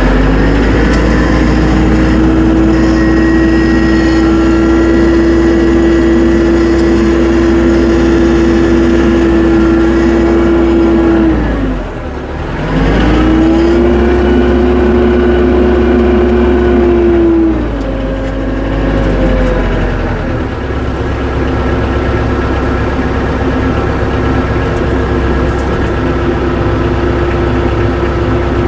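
Tractor engine running at high revs under load, dropping away briefly about twelve seconds in and revving back up, then settling to lower revs for the rest of the time.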